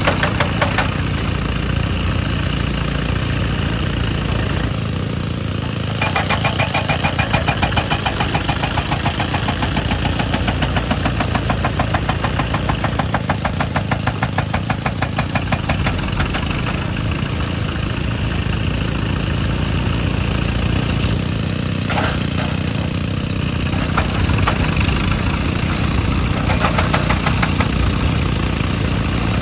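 JCB excavator's diesel engine running steadily. From about six seconds in, a hydraulic rock breaker hammers rock with rapid, even blows for about ten seconds, then stops, leaving the engine with a few single knocks.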